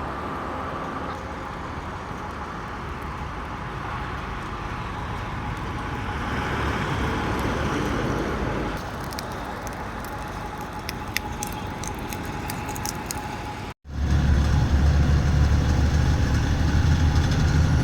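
Road traffic noise with a vehicle passing; after a sudden cut about 14 seconds in, a truck engine's steady low drone, louder.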